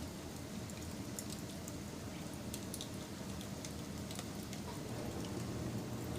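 Wood fire burning, crackling with many quick irregular pops over a steady low rumble of flames.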